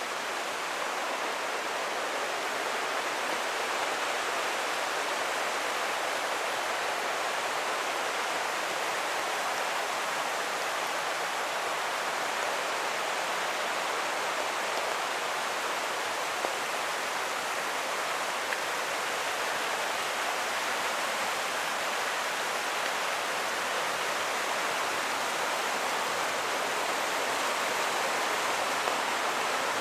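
A creek's water rushing steadily, a constant even hiss of flowing water.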